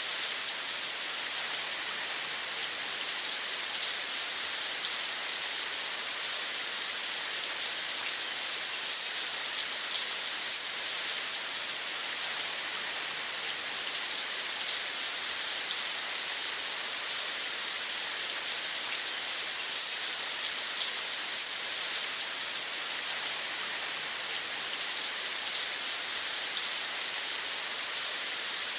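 Steady rain falling, an even, unchanging hiss with no breaks.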